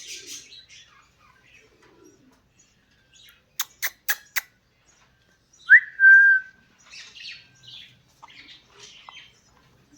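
Pet parrot giving one short whistle, a quick upward swoop into a held note, preceded by four sharp clicks and followed by soft chirps.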